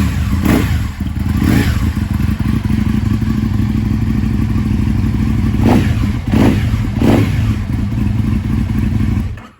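2007 Aprilia Tuono 1000R's V-twin running loud through aftermarket Akrapovic exhausts, freshly started from cold, with about five short blips of revs over a steady idle. It is switched off near the end and cuts out suddenly.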